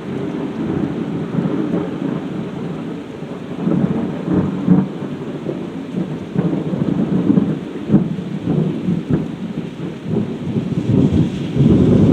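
Thunder rumbling and rolling over steady heavy rain during a severe thunderstorm, with a few sharp cracks in the middle and the rumble swelling louder near the end.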